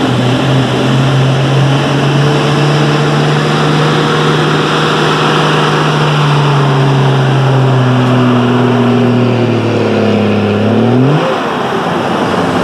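Diesel pickup truck engine running hard under load in a truck pull. Its note holds steady, then slowly sinks in pitch as it lugs down, and near the end rises sharply in a quick rev before dropping off.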